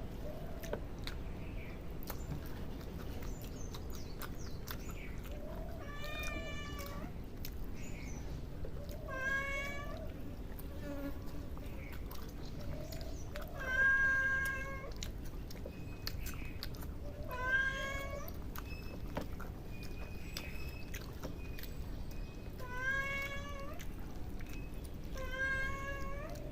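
An animal calling six times, each call about a second long and a few seconds apart. The loudest call comes about midway.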